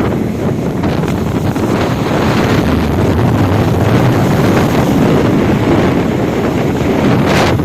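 Strong storm wind blowing hard across the microphone, a loud, steady rush with a sharper gust near the end.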